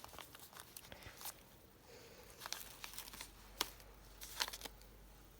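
Faint rustling and crinkling of paper, with scattered light clicks, as a handmade paper journal is handled.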